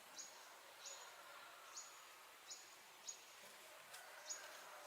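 Faint outdoor background with a small creature's high, thin chirp repeating about once a second, each note sweeping up quickly and holding briefly.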